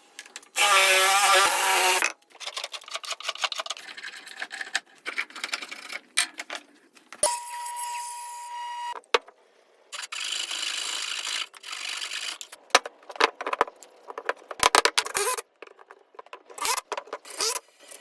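A run of short, abruptly cut woodworking sounds on logs: bursts of a power tool's motor whine, one early with a wavering pitch and one later held steady, between knocks, clicks and rubbing on wood.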